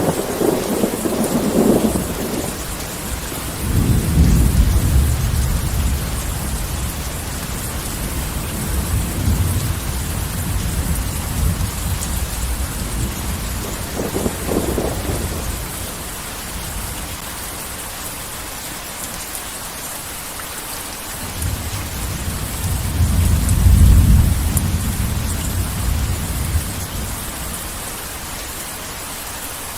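Heavy rain falling steadily, with rolling thunder rumbling in long low waves. The rumble swells early on, again for several seconds from about four seconds in, and loudest near the end.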